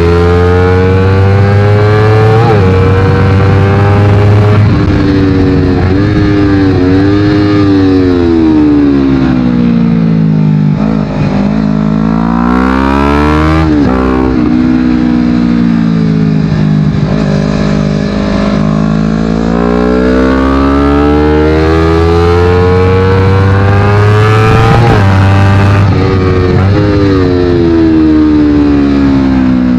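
Honda CBR250RR's parallel-twin engine through a Yoshimura aftermarket exhaust, revving hard at speed. The pitch climbs steeply through the revs, then falls away as the bike slows. This happens several times, with quick drops in pitch as it shifts.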